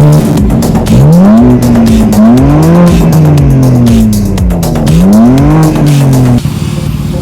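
BMW M4 Competition's twin-turbo straight-six revving, its pitch climbing and then sinking slowly, twice, over electronic music with a steady beat. The engine sound cuts off abruptly near the end, leaving only the music.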